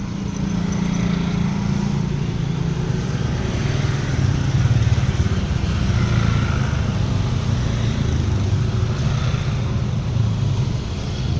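A motor vehicle engine running steadily, a low hum that swells slightly a few times.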